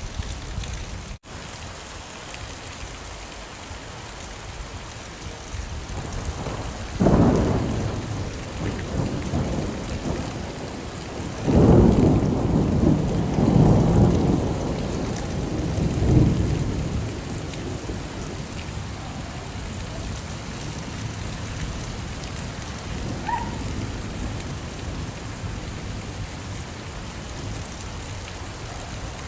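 Steady heavy rain with rolls of thunder: a short rumble about a quarter of the way in and a longer, louder one near the middle. The sound cuts out for an instant just after the start.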